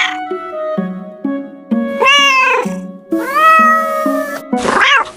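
A cat meowing three times, with a short call about two seconds in, a long drawn-out one after it, and a brief one near the end, over background music.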